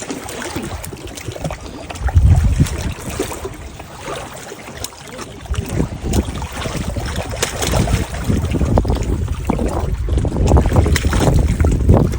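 Wind buffeting the microphone in uneven gusts, a low rumble that swells about two seconds in and again in the second half.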